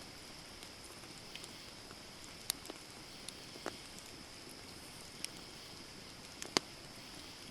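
Wood campfire burning: a steady soft hiss with a few sharp, scattered crackles and pops, the loudest about six and a half seconds in.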